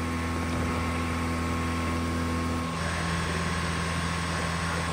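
Mahindra XUV700's 2.2-litre four-cylinder diesel engine running steadily during a workshop-forced DPF regeneration, burning off soot that keeps building up in the particulate filter. The hum shifts in tone about two and a half seconds in.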